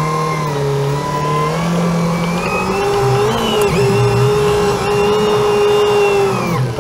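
An engine running, its pitch climbing gradually over the first few seconds, then holding steady before it falls away sharply near the end.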